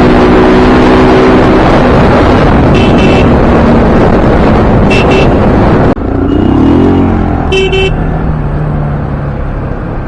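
Heavy wind and road noise from a moving motorcycle, with short vehicle-horn toots about three and five seconds in. After an abrupt cut near six seconds it turns quieter, with a brief rising and falling pitch, another horn toot and a steadier, lower sound.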